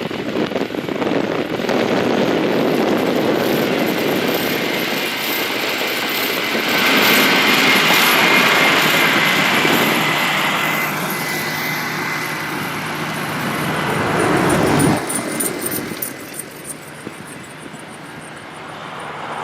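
Road vehicles passing by, their tyre and engine noise swelling and fading. The loudest pass comes about a third of the way in, carrying a faint whine that drops slightly in pitch as it goes by. A second pass cuts off abruptly about three quarters of the way through.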